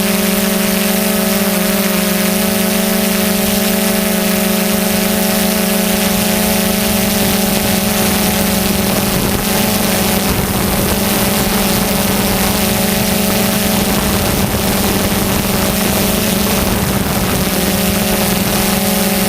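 DJI Phantom 2 quadcopter's electric motors and propellers running in flight: a loud, steady hum with a strong low tone, fainter higher tones and a hiss above. The tones waver in pitch for a stretch in the middle.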